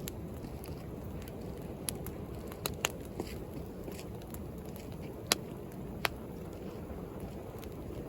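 Wood bonfire crackling, with scattered sharp pops, about half a dozen, the loudest a little past the middle. Under it runs a steady low rush of sea waves.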